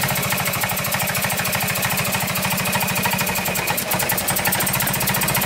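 Car engine idling steadily with an even run of firing pulses, its ignition timing just set by turning the distributor and checking with a timing light.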